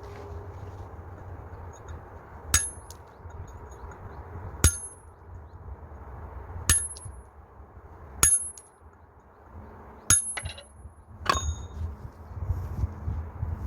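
Hard bricks clinking against each other as they are set in place, six sharp ringing clinks about two seconds apart.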